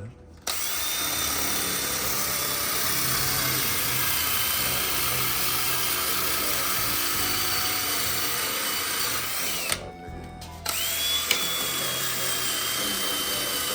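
Cordless drill spinning a sanding/polishing attachment on a plastic headlight lens. It runs with a steady whine that sinks slightly in pitch, stops for about a second after nine seconds, then starts again. The drill's battery is running low, as the user judges.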